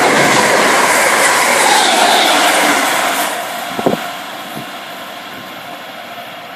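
A train passing close by, loud, its noise dropping away from about three seconds in as it moves off. A short sharp click just before four seconds in.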